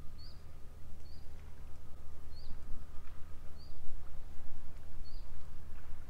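A bird repeats one short, high chirp about five times, roughly once a second, over a steady low rumble.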